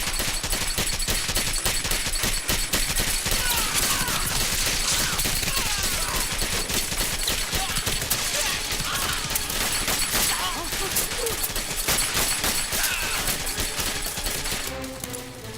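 Sustained film gunfire: many rapid shots overlapping, with machine-gun bursts, thinning out near the end.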